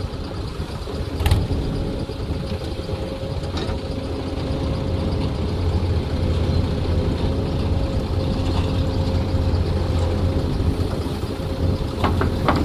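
Heavy diesel engine running steadily, with a sharp knock about a second in and another near the end.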